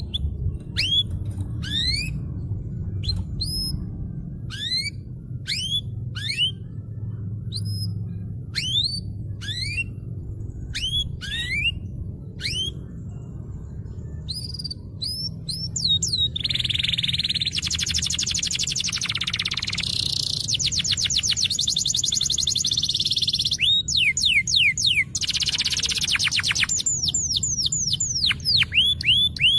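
Domestic canary singing energetically. Its song opens with a string of separate upward-sweeping whistled notes. About halfway through it breaks into louder, fast rolling trills.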